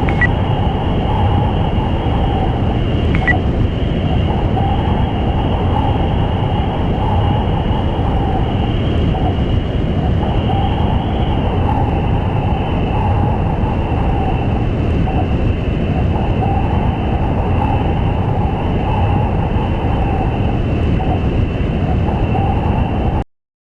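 Steady, loud mechanical running noise: a low rumble with a constant high whine over it, the whine dropping slightly in pitch about halfway through. It cuts off abruptly near the end.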